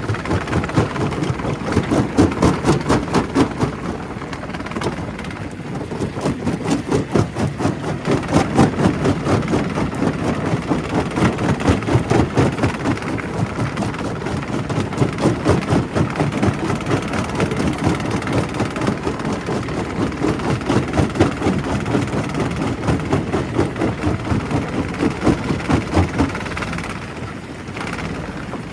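Primary rock crusher at a quarry running and breaking stone, a continuous rough clatter of rapid knocks and grinding that eases slightly near the end.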